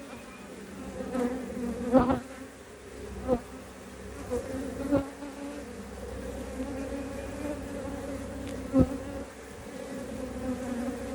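Honeybees buzzing steadily in a low hum around an open hive, with a few sharp knocks as wooden hive frames are shifted.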